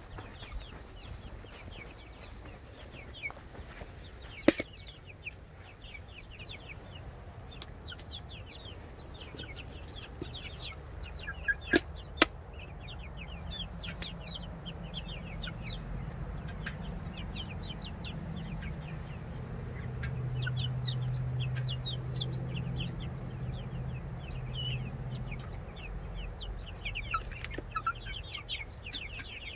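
Backyard chickens clucking, with many short falling calls throughout. There are a couple of sharp knocks, and a low steady hum through the middle stretch.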